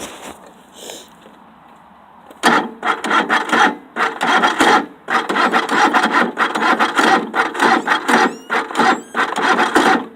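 Engine being cranked by its starter motor on a cold start, turning over in a rapid, uneven rasping chatter that begins about two and a half seconds in without catching. The battery is too weak to spin it properly.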